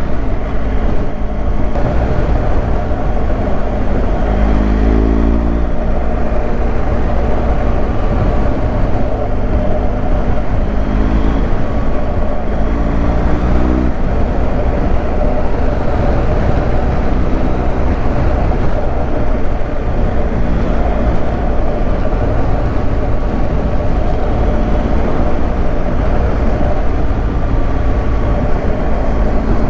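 Motorcycle engine heard from the rider's seat under steady wind and road noise, accelerating a few times with the pitch climbing and dropping back at each gear change.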